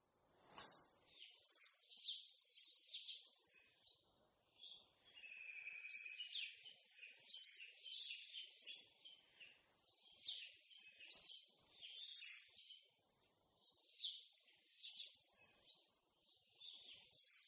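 Several songbirds singing and chirping at once in a faint, continuous chorus of overlapping short calls and trills.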